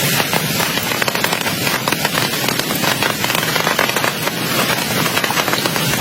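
Heavy rain falling steadily, a dense hiss thick with many sharp drop hits.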